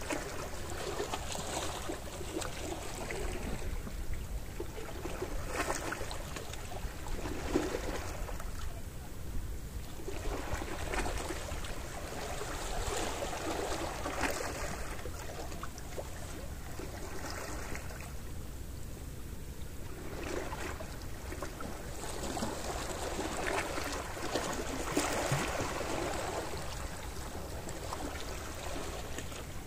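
Gentle sea waves washing in and drawing back, each surge swelling and fading over a few seconds, over a steady low rumble.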